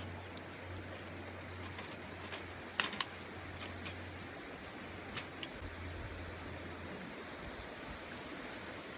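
Steady rushing outdoor noise with a low wind rumble on the microphone that drops away about seven seconds in, and a few sharp crackles or pops about three and five seconds in.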